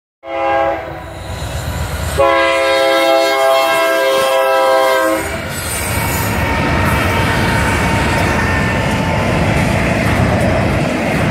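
Train horn sounding a short blast, then a long blast of about three seconds, several notes held together as a chord. The train then passes close by with a steady rumble of wheels on the rails.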